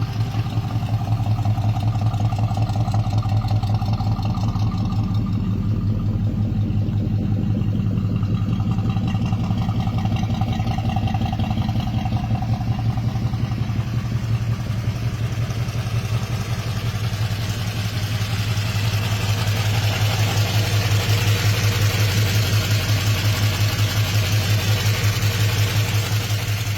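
1972 Ford LTD's 429 V8 engine idling steadily, a low, even, pulsing hum.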